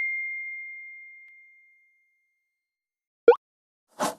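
A single bell-like ding that rings on one clear high tone and fades out over about a second and a half. Near the end come a short sliding chirp and a brief burst of noise.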